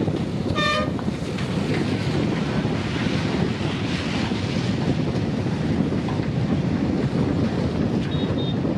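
Passenger train hauled by a diesel locomotive running along the track, a steady low rumble, with a short toot of its horn about half a second in.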